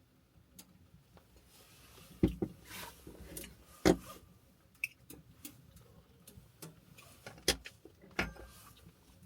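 A few sharp knocks and clicks of things being handled and set down, about five in all, the loudest about four seconds in, over a faint hiss.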